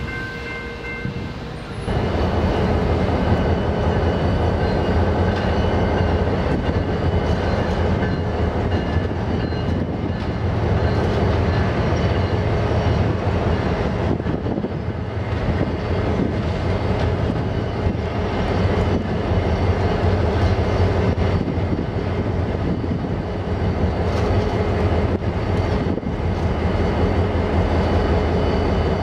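A BNSF coal train passing close by, starting loudly about two seconds in after a quieter stretch. Its lead diesel locomotives, a GE Dash 9-44CW and an EMD SD70MAC in Executive paint, run with a steady low drone, followed by the clatter of coal hopper cars rolling past.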